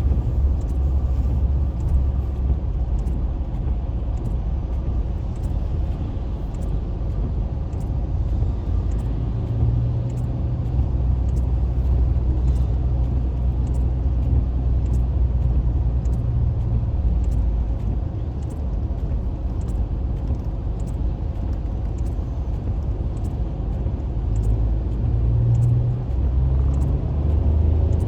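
Steady low rumble of a car driving on a highway in the rain, heard from inside the cabin: engine and tyre noise on the wet road. A faint high tick repeats evenly about every two-thirds of a second.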